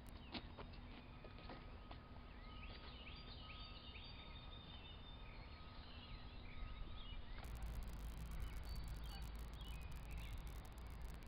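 Faint bird calls, a run of short chirps lasting a few seconds, over quiet outdoor background noise. About seven seconds in, the background changes to a low rumble.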